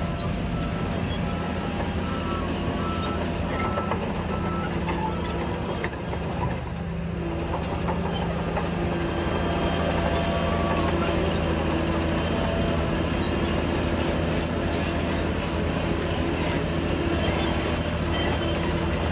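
Shantui DH17C3 crawler bulldozer working: its diesel engine runs steadily under the clank and squeal of the steel tracks. The engine note grows louder and fuller about eight seconds in as the machine takes on load.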